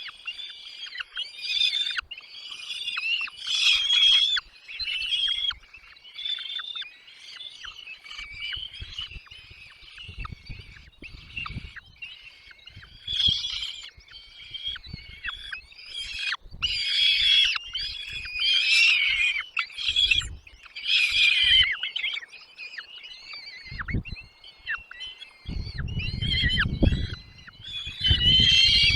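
Songbird nestlings begging in the nest: a near-continuous chorus of high, rapid cheeping calls. Brief low rumbles come partway through and again near the end.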